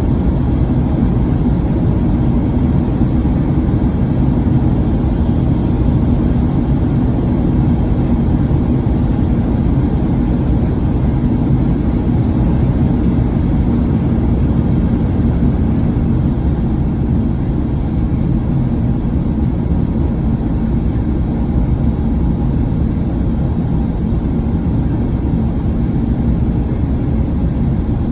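Steady cabin noise inside a Boeing 737-900ER in flight: rushing airflow and the drone of its CFM56-7B turbofan engines, heard from a forward window seat, even and unbroken throughout.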